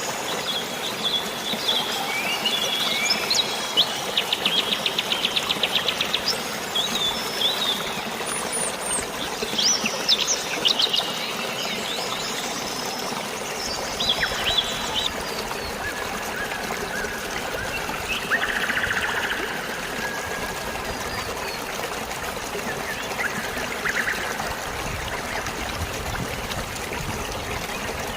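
Songbirds chirping and trilling over a steady wash of flowing water. The calls come thick in the first half and thin out after about halfway, as the water sound grows fuller.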